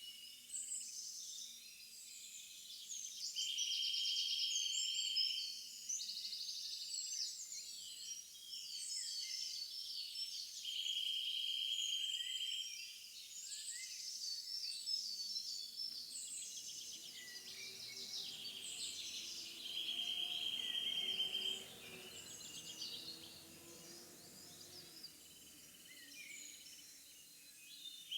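A chorus of songbirds singing and chirping, with a steady high trill about two seconds long repeating every several seconds.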